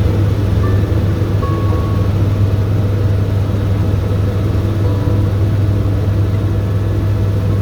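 Helicopter engine and rotor running steadily: a loud, unbroken drone with a strong low hum.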